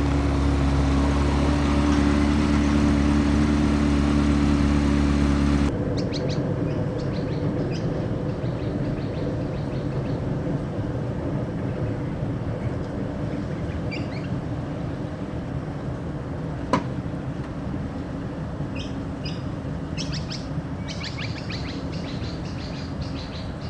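A loud, steady engine-like drone with several steady tones, which cuts off abruptly about six seconds in. A quieter steady rumble follows, with birds chirping over it and one sharp click in the middle.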